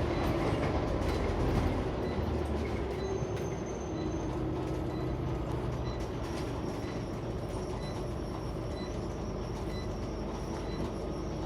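Scania CN94UB Omnicity single-deck bus heard from inside the saloon while driving: a steady engine and road-noise drone with body rattles, a little louder at first and settling lower after about four seconds.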